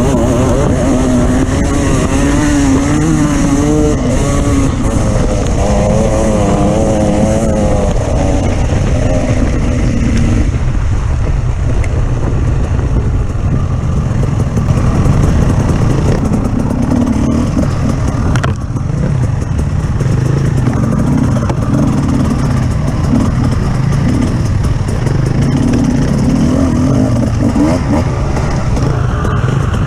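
Off-road motorcycle engine running loud and close, its pitch rising and falling continually as the throttle is worked while riding. There is a brief dip in level a little past halfway.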